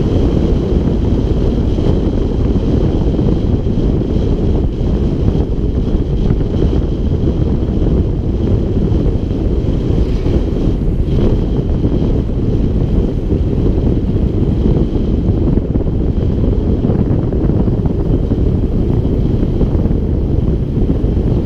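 Wind buffeting the microphone of a rider moving at speed on a bicycle: a loud, steady, low rumble.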